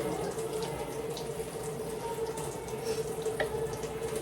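Water running steadily, with an even rushing sound and a steady hum underneath.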